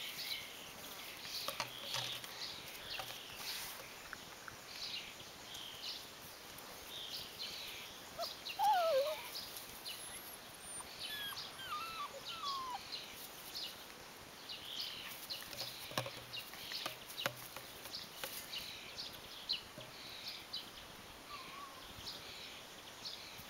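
Birds chirping, short high chirps over and over. About a third of the way in, a few lower, falling calls are the loudest sound.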